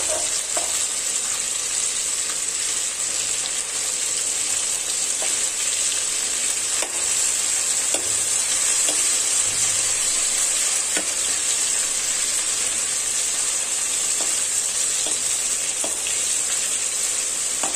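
Stuffed bitter gourds sizzling steadily as they shallow-fry in hot mustard oil, with a few light clicks of a slotted metal spoon against the pan.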